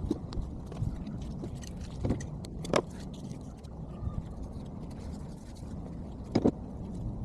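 Sped-up repair work: scattered clinks and knocks of tools and metal parts over a low rumble, with two louder sharp knocks, about three seconds in and near the end.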